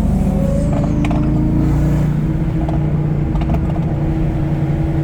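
Car engines running at a steady speed, heard from inside a moving car's cabin, with a few light clicks and rattles.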